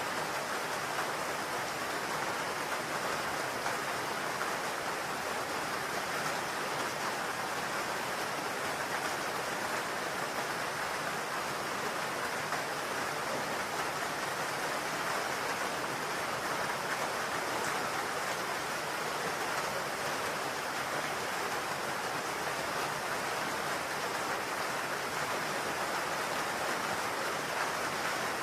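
Steady rain drumming on a roof, an even hiss.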